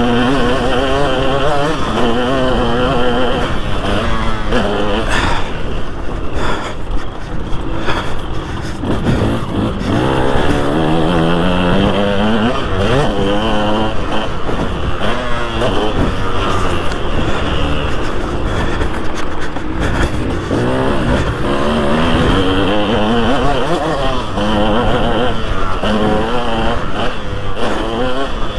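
Two-stroke engine of a 2003 KTM 200 SX motocross bike, revved hard and backed off over and over while it is ridden: its pitch climbs, drops and climbs again many times.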